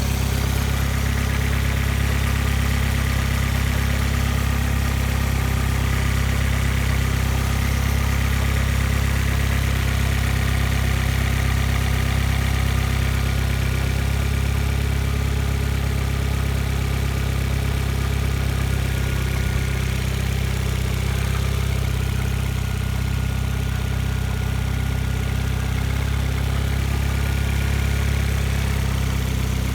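2006 Vauxhall Astra VXR's 1998cc turbocharged four-cylinder petrol engine idling steadily.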